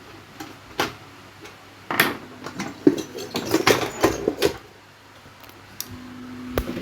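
Handling clatter: a couple of sharp clicks, then a quick run of knocks and metallic clinks, like metal pot and cooker parts being handled. A steady low hum sets in near the end.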